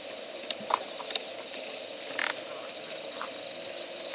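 Wood campfire crackling: a handful of sharp pops at irregular moments, over a steady high tone in the background.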